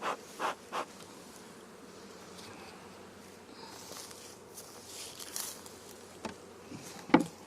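Honeybees buzzing around an opened hive. Three short puffs from a bee smoker's bellows come in the first second, and a single sharp knock comes near the end.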